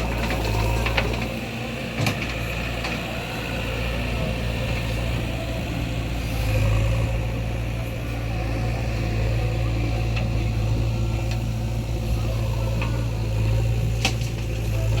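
Heavy diesel engine of earth-moving machinery running steadily, pulling harder about six seconds in. A few sharp knocks come through, near the start, about two seconds in and near the end.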